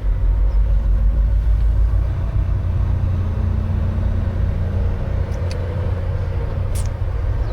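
Volvo semi-truck's diesel engine heard from inside the cab as the truck drives off, a steady low rumble. Two faint short ticks come near the end.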